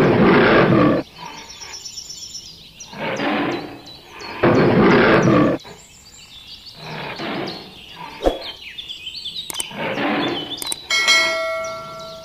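A tiger roaring again and again, each roar about a second long with short gaps between them. Near the end a bright bell-like chime rings, the notification sound of a subscribe-button animation.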